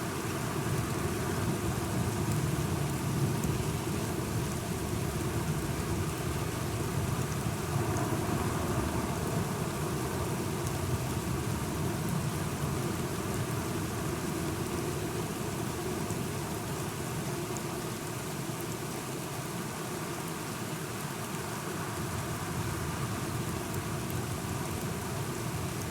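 Steady rain falling, with a low continuous rumble underneath that is typical of distant thunder.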